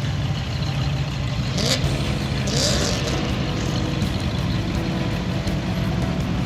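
Car and truck engines running past in a steady line, with a low rumble throughout. About two seconds in, an engine revs up briefly twice, each rev a short rising whine with a rush of noise.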